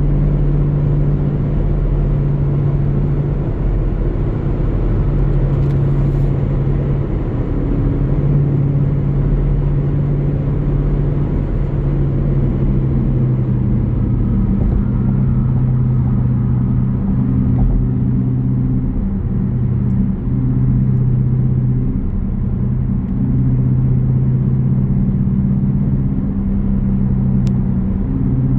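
Jeep Grand Cherokee's 5.7-litre Hemi V8 exhaust rumbling steadily on the road, its low engine note stepping a little up and down with the throttle.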